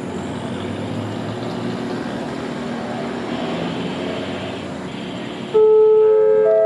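Train noise with a steady engine hum from a diesel-hauled train at the platform. About five and a half seconds in, a station public-address chime starts, its held notes stepping upward one after another. The chime signals a platform announcement.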